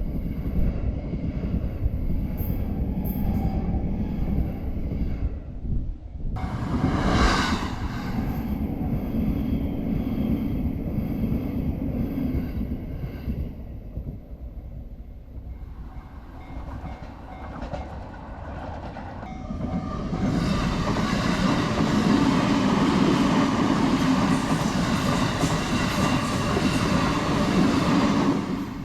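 A train running past a level crossing on the Sobu Main Line: a steady rumble, a sudden change about six seconds in, then louder running with a dense rattle from about twenty seconds in that drops off at the very end.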